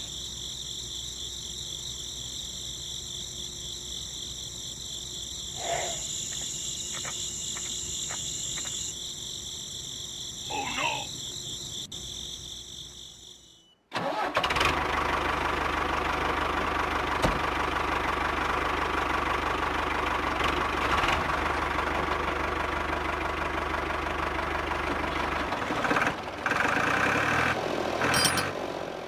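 Crickets chirring steadily. About halfway through, a hard cut to a small motor running loudly and steadily with a low hum, which changes near the end.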